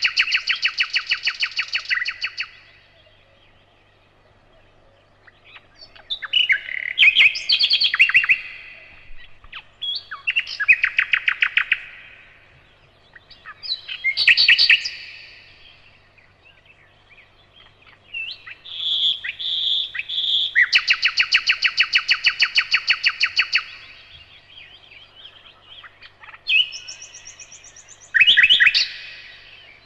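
Nightingale singing: phrases of fast repeated notes, each lasting a few seconds, with short pauses between them.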